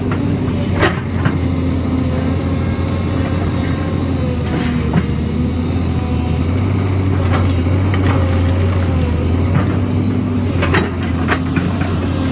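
Excavator diesel engine running steadily under load, with scattered sharp knocks and scrapes of the bucket working rock and soil.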